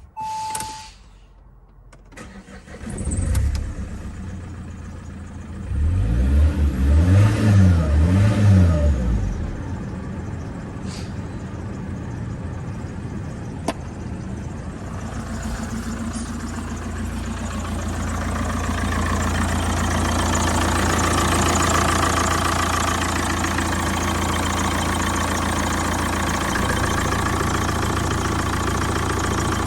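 Saab 9-3 1.9 TiD (Z19DT) four-cylinder common-rail turbodiesel cranked and started about three seconds in, then revved up and down three times and left idling steadily.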